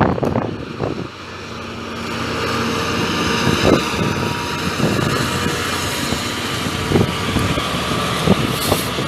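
A train running at the station. Its broad, steady mechanical noise builds up from about two seconds in, with a few faint steady tones in it. Wind bumps on the microphone now and then.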